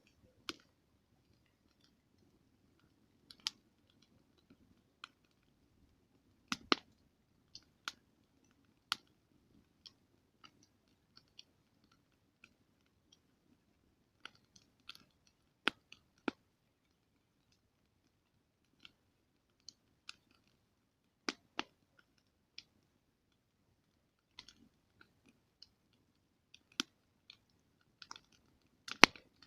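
Wood campfire crackling: sharp pops and snaps at irregular intervals over a faint low rumble of burning.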